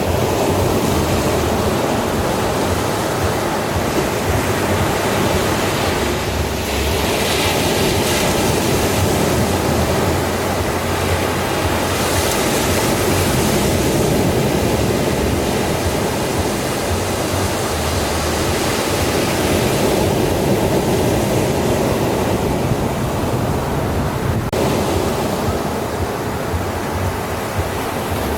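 Sea waves breaking and washing on a shore in a steady wash of surf, with swells of hiss about seven and twelve seconds in.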